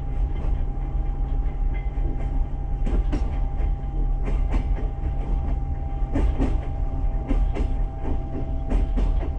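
Passenger train carriage running along the track, heard from inside: a steady low rumble of wheels on rails with a thin steady whine, and clusters of clicks from the wheels crossing rail joints every second and a half or so.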